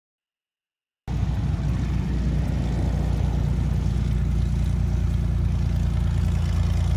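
Silence for about the first second, then a Cessna 182's piston engine running steadily with a deep, even drone.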